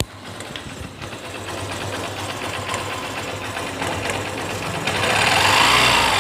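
Honda Shine 125's single-cylinder four-stroke engine running, briefly revving up near the end and dropping back, with a light metallic 'tang tang tang' from the timing chain as the revs fall. The chain was newly replaced, and the mechanic traces the noise to too little cam-chain tensioner pressure.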